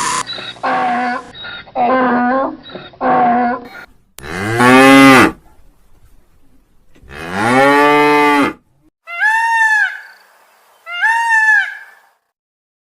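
Cow mooing: two long, low moos about three seconds apart, each rising then falling in pitch. Before them come three short, higher calls, and after them two short, high-pitched calls.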